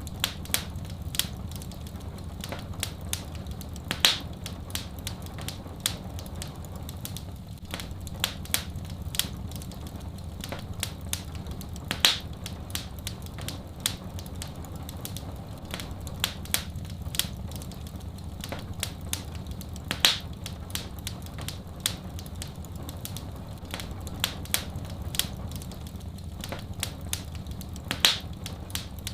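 Wood fire crackling, with irregular small snaps and a louder pop about every eight seconds, over a steady low rumble.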